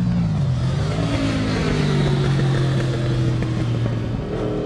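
Honda VFR's V4 engine at high revs as the motorcycle passes on the track. Its note drops in pitch as it goes by and then holds, and a rising engine note comes in near the end.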